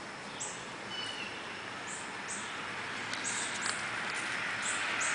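A fledgling baby bird cheeping: short, very high-pitched peeps repeated irregularly, about two a second at times, over a steady outdoor hiss.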